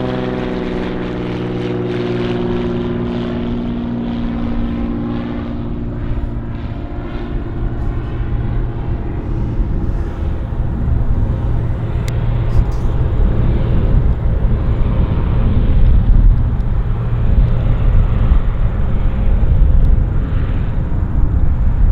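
Beech B36 Bonanza's single six-cylinder piston engine and propeller droning past, the pitch falling over the first few seconds as it goes by. A low, steady rumble follows and grows louder in the second half.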